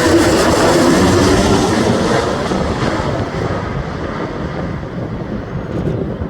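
Aircraft engine noise fading as the plane moves away: a loud, even rush that loses its higher part first and grows steadily quieter.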